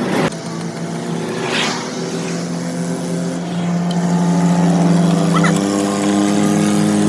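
A vehicle engine running steadily, its pitch shifting a few times, with a sharp knock at the start and a short hiss about a second and a half in.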